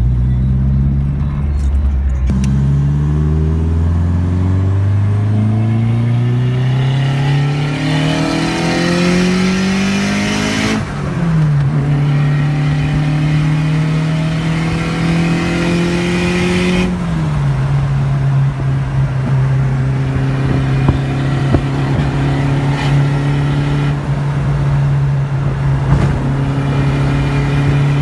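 Car engine pulling hard: after a quick gear change about two seconds in, its pitch climbs steadily for around nine seconds. It then drops sharply and holds an even note as the car cruises, stepping down slightly a few seconds later.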